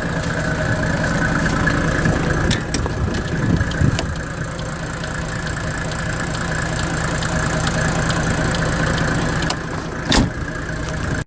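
Mercedes OM603 six-cylinder diesel engine running steadily, with a sharp knock about ten seconds in.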